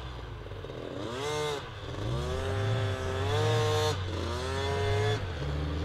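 Off-road 4x4's engine revved hard three times, the pitch climbing and then holding high before dropping back, over a low steady rumble.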